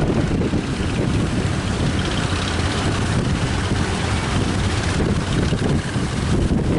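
Strong wind buffeting the microphone, gusting unevenly over a low rumble of surf and boat engines.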